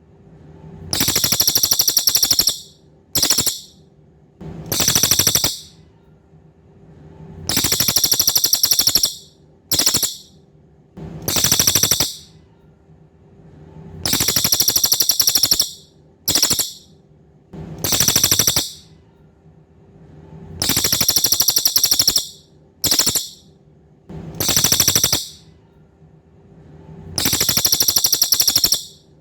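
A cililin songbird singing in high, rapid trilling bursts, about a dozen in a row, each from a fraction of a second to about two seconds long, separated by short pauses. It is singing actively and steadily, the full song used as a training recording for competition birds.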